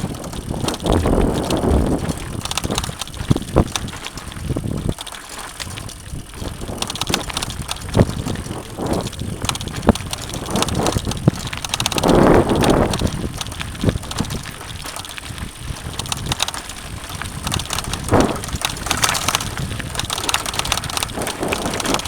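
Mountain bike riding over rough dirt and rock trail: tyres rolling and the bike rattling, with many irregular knocks and clicks. Louder swells of rushing noise come about a second in and again about halfway.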